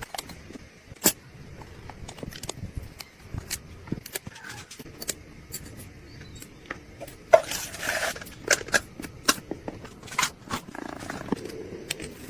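Small hand tools on metal watch parts: irregular sharp clicks, taps and scrapes, with a short rush of noise about seven seconds in.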